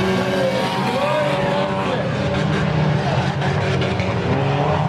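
Several claimer race cars racing around the oval, their engines running hard. Overlapping engine notes rise and fall in pitch as the cars go by.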